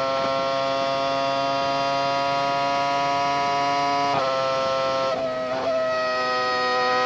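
Formula One V10 engine heard onboard at high revs, a steady high-pitched note. The pitch drops sharply about four seconds in as it shifts up a gear, dips and wavers briefly a second later, then holds steady again.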